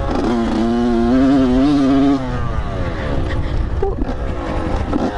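Dirt bike engine revving hard under throttle, held high with a wavering pitch for about two seconds, then winding down off the throttle. It revs up sharply again near the end.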